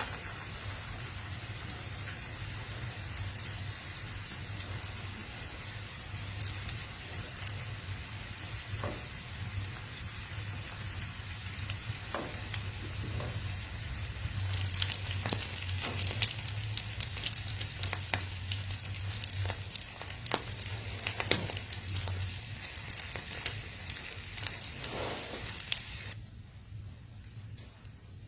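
Wood fire crackling, a steady hiss full of sharp irregular pops and snaps over a low steady rumble. About two seconds before the end the crackle falls away, leaving mainly the low rumble.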